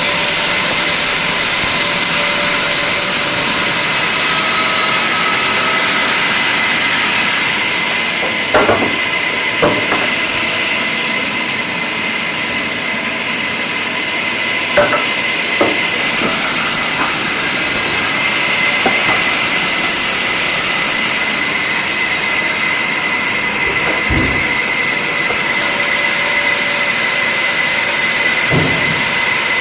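Woodworking machinery running steadily in a workshop, a noisy hum with a high whine, broken by a few sharp knocks of wood against metal.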